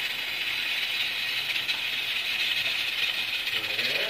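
Chopped onions with garlic and ginger frying in hot oil in a pan, a steady crackling sizzle, stirred with a wooden spatula.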